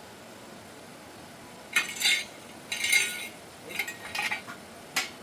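Metal pieces clinking and scraping against each other in about six short, bright bursts, starting a little under two seconds in.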